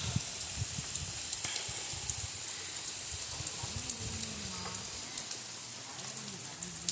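Steady rain falling, a hiss with scattered drops ticking.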